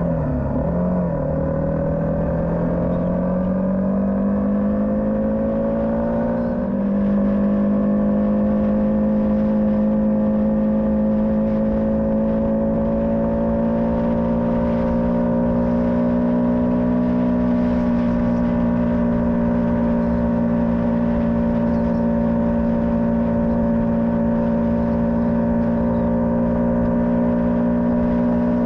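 Motorcycle engine heard from on board while riding: its pitch dips briefly in the first second, climbs steadily as the bike accelerates, steps up in pitch and loudness about seven seconds in, then holds steady at cruising speed, over a constant low rumble.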